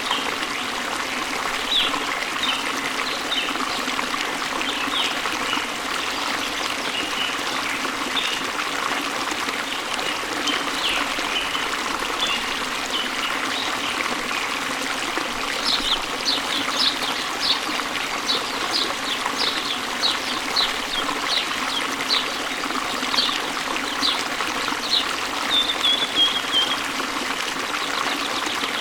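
Waterfall and stream running steadily, with birds chirping over the water. About halfway through, a bird gives a long run of quick high chirps that ends in a short trill.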